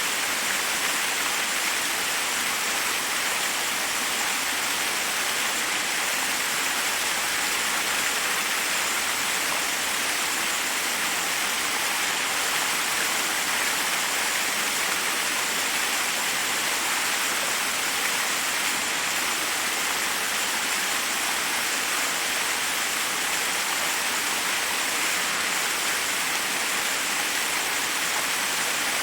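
Forest waterfall: a steady rush of water falling over rocks, an even hiss that does not change.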